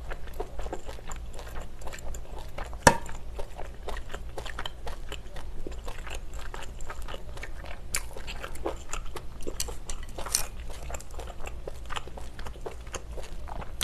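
Close-miked chewing of spicy braised pork ribs: steady wet mouth sounds made of many small clicks, with one sharp click about three seconds in.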